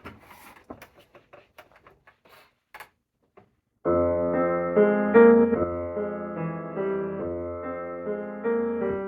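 A few faint clicks and taps, a brief silence, then slow ambient piano music starts abruptly about four seconds in, with sustained chords over a low bass note.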